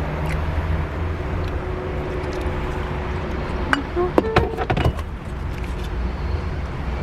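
Steady low engine hum, with a short burst of clicks and rattles about four seconds in.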